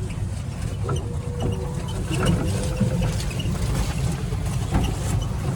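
Steady low rumble of a moving vehicle, road and engine noise, with a few faint clicks.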